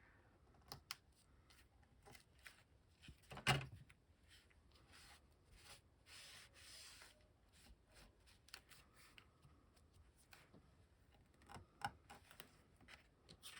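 Quiet handling of paper and card on a work table: scattered light taps and rustles, with one sharper tap about three and a half seconds in and a soft brushing rustle around the middle.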